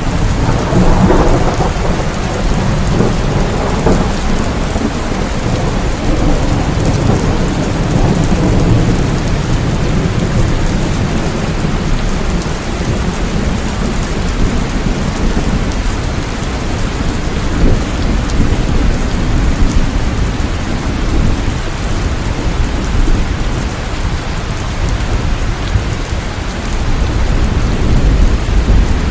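Steady heavy rain with a deep, continuous rumble of thunder beneath it; the rumble swells about a second in and again near the end.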